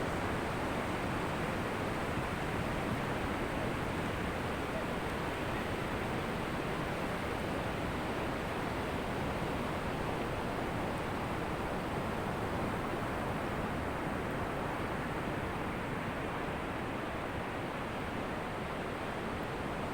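Ocean surf on a beach: a steady, even rush of waves with no distinct single breakers.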